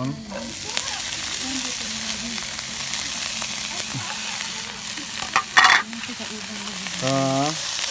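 Sliced fried tofu and sliced green beans hitting a hot oiled pan of onions and sizzling steadily as they fry. About five and a half seconds in there is one brief, loud clatter.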